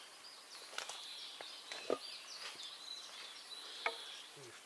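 Small songbirds chirping and singing in a steady chorus of short high notes, with a few faint knocks, the clearest about two seconds in and near the end.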